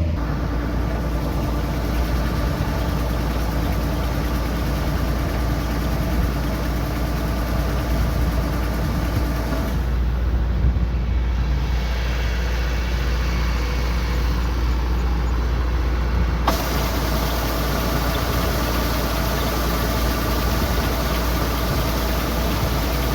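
Kubota combine harvester's diesel engine running steadily with a deep, constant drone. The high end changes abruptly about ten seconds in and again about sixteen seconds in.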